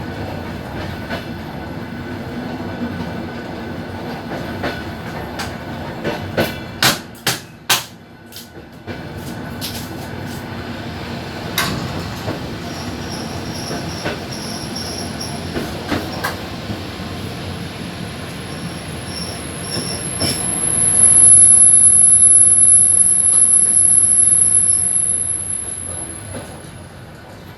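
Suburban train wheels rolling on the rails, with a quick run of four or five sharp knocks as the wheels pass over rail joints or a switch. About two-thirds of the way through, a loud high steady wheel squeal sets in for about six seconds, the sound of wheel flanges grinding on a curve, then dies away.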